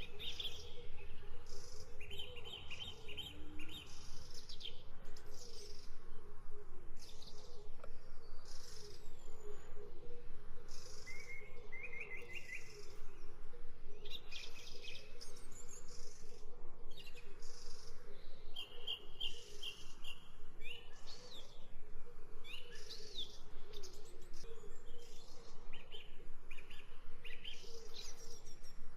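Forest birds chirping and singing, with short repeated trills and scattered high calls.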